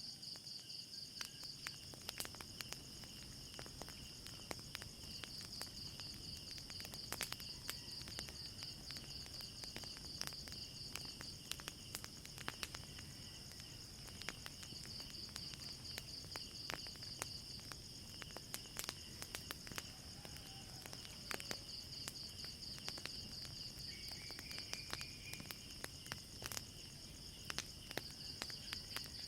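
Crickets chirping in a steady, pulsing high trill, with the sharp crackles and pops of a wood fire scattered throughout.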